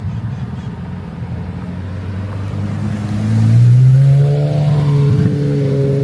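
A car engine running, rising in pitch a little after three seconds in as it picks up speed, loudest about four seconds in, then holding a steady note.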